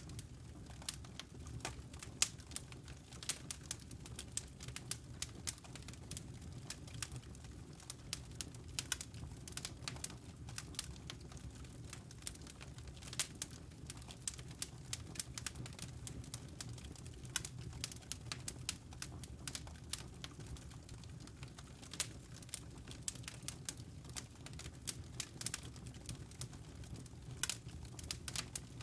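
Wood fire crackling with many irregular sharp pops and snaps, over a steady low cat purr.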